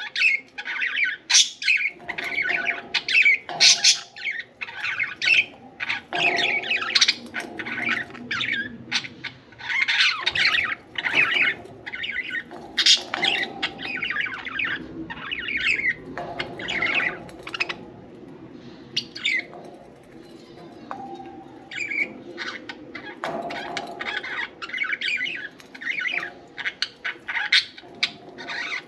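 Budgerigars chirping and chattering in quick, busy bursts of short high notes, easing into a brief lull about two-thirds of the way through before picking up again.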